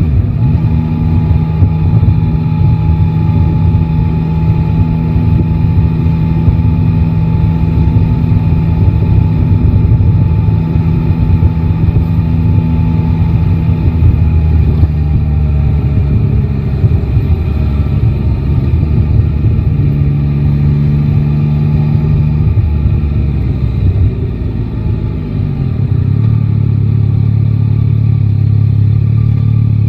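Yamaha Tracer 9 GT's three-cylinder engine running under way in city riding. It holds steady revs, shifts pitch a few times as speed and gears change, and eases off briefly past the middle before settling to a steady lower note.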